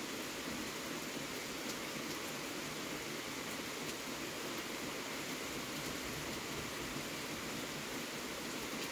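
Steady rain falling during a thunderstorm, an even hiss with a few faint ticks of drops.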